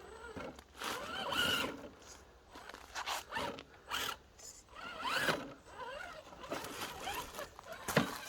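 Whine from the FTX Hi Rock RC crawler's 55-turn brushed motor and gears, which rises and falls in short bursts of throttle as it crawls over rocks. A sharp knock comes about eight seconds in.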